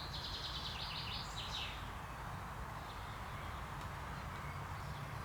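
A faint common chaffinch song: a quick run of high repeated notes that ends in a few descending notes, over in the first second and a half. A steady low background rumble runs underneath.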